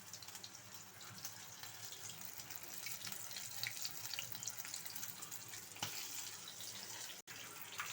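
Flour-coated chicken pieces frying in hot oil: a steady faint sizzle sprinkled with many small crackles.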